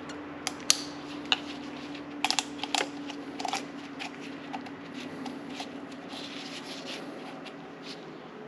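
Scattered light clicks and rustling from hands working the plastic cartridge oil-filter housing and its rubber O-ring, over a steady low hum.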